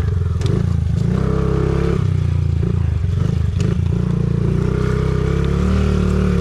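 Honda CRF50 pit bike's small single-cylinder four-stroke engine being ridden hard, revs rising and falling with the throttle, with a few sharp knocks and clatter from the bike over the track.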